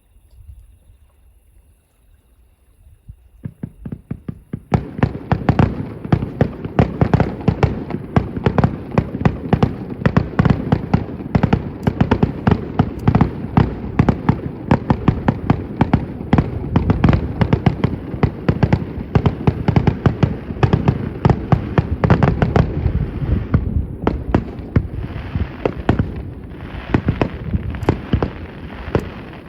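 Fireworks display heard from a distance: after a few quiet seconds, a starmine barrage of shells bursting in rapid succession, several bangs a second, keeps going with a brief thinning near the end.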